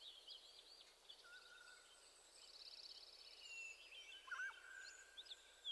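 Near silence with faint birds calling in the background: scattered short chirps and whistles, and a brief rapid trill around the middle.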